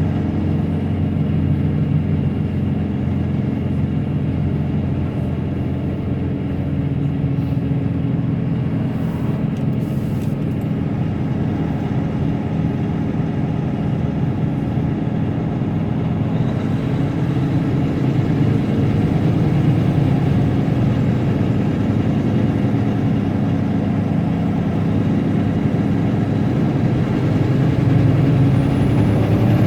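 Heavy truck's diesel engine running steadily under way, heard from inside the cab, its note shifting about halfway through.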